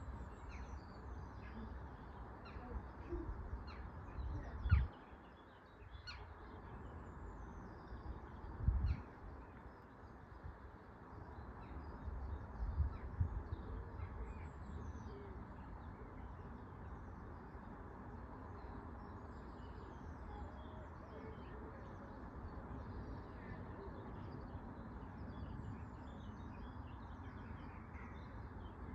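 Birds chirping and calling in the background over a steady low rumble, with a sharp low thump about five seconds in and another near nine seconds.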